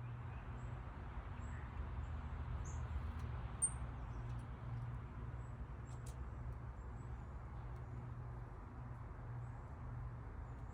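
Small birds giving faint, very short high chirps several times, the clearest about a third of the way in, over a steady hiss and low hum from the feeder camera's microphone.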